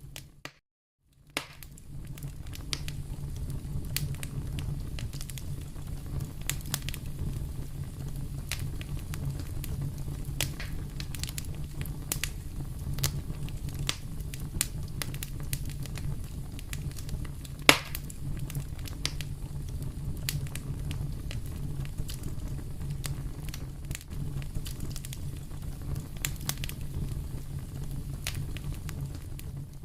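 Fireplace fire crackling: a steady low rumble of flame with frequent sharp pops and snaps, and one much louder pop a little past halfway. The sound drops out briefly just after the start.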